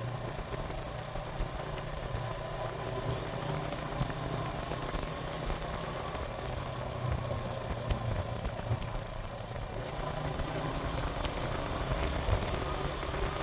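Suzuki GN125 motorcycle's single-cylinder four-stroke engine running steadily, with an even hiss of wind and road noise over it.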